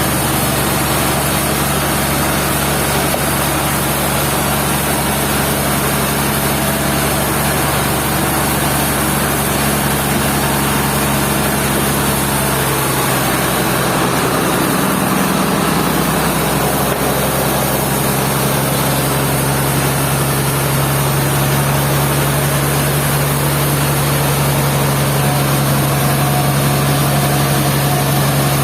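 Sawmill machinery engine running steadily, its pitch shifting about halfway through before settling again.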